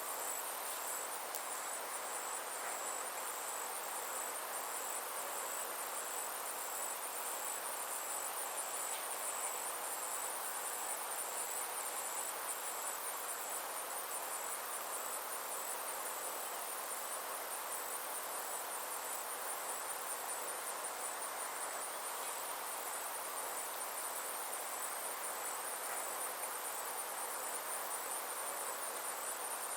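Summer insect chorus: a steady, high-pitched trill pulsing rapidly and evenly, over a softer continuous hiss.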